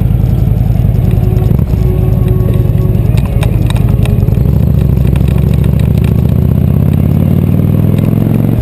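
Motorcycle engine running loud, its pitch climbing steadily through the second half as it accelerates, then dropping suddenly near the end as it shifts gear. A few short clattering clicks are heard about three seconds in.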